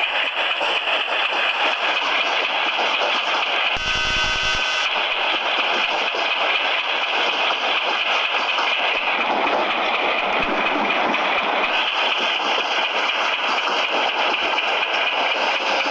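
Train on the move: a steady, loud rumble and clatter of wheels on the rails. About four seconds in, a one-second sound with several steady tones cuts across it.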